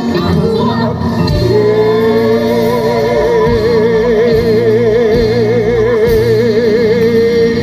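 Live rock-and-roll show music: from about a second and a half in, a singer holds one long note with wide vibrato over the band.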